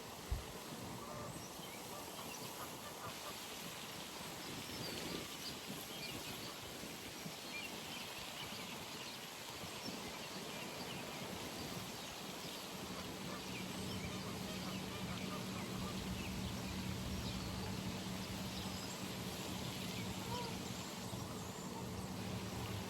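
Pond ambience with ducks or geese calling now and then over scattered chirps of small birds. About halfway through, a low steady hum comes in and continues.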